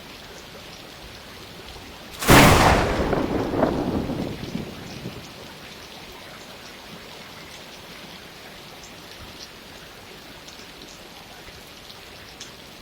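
Steady rain with a sudden, loud thunderclap about two seconds in that rumbles away over the next three seconds.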